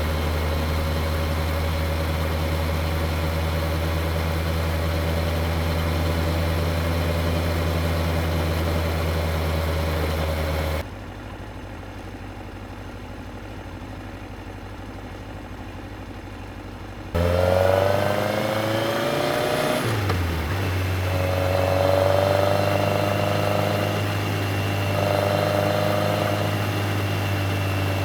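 Yamaha XJR1300's air-cooled inline-four engine running steadily. For several seconds in the middle the sound drops much quieter. It returns with the engine revving up, the pitch climbing and then falling as it shifts, and runs on with small surges in speed.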